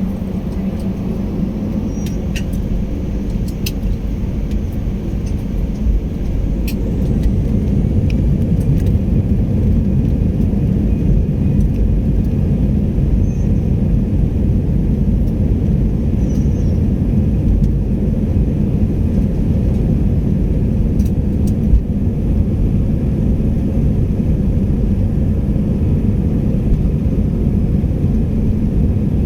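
Airliner engines and rolling noise heard inside the passenger cabin: a steady low rumble that grows louder about seven seconds in and then holds, with a few light clicks and rattles.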